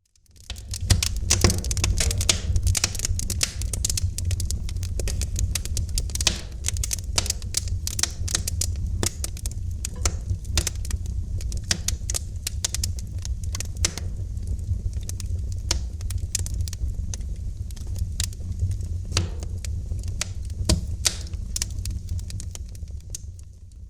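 Wood fire crackling, with dense irregular pops and snaps over a steady low rumble. The sound fades in from silence just after the start and drops out briefly near the end.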